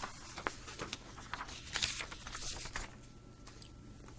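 Pen writing on paper: short scratchy strokes and light taps, faint.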